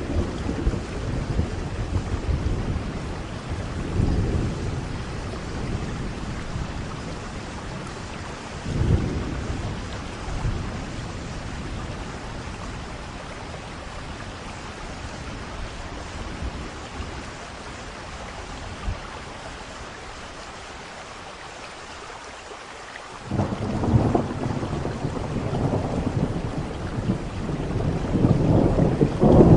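Thunderstorm: steady rain falling with rolls of thunder. The rumbles die down through the middle, then a loud thunderclap breaks in about three-quarters of the way through and the rumbling keeps growing.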